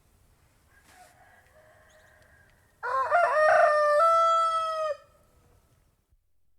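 A domestic rooster crowing once, a full cock-a-doodle-doo starting about three seconds in with a choppy opening and a long held final note that drops off at the end. A fainter crow is heard just before it.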